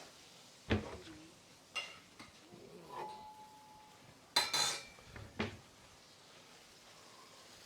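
Metal kitchenware clanking: a handful of separate knocks and clinks of pans and utensils, one leaving a brief ringing tone. The loudest cluster comes about halfway through.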